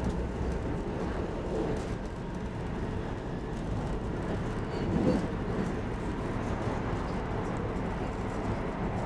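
An SL X10 electric commuter train running at speed, heard from inside the carriage as a steady rumble of wheels on track. There is a brief louder swell about five seconds in.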